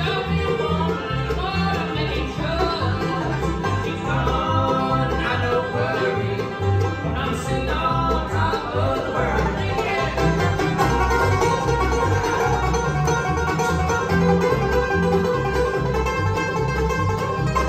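Live bluegrass band playing an instrumental break, with banjo rolls to the fore over guitar and a steady, evenly paced low bass line.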